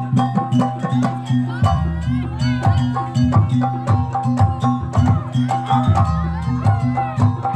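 Traditional Javanese jaranan ensemble music: drums and struck percussion in a quick, steady beat over sustained low gong-like tones, with a melody line that slides up and down in pitch.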